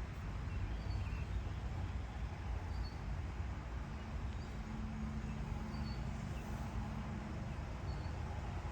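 Garden ambience: a steady low rumble with faint, brief bird chirps scattered throughout, and a faint steady hum in the middle.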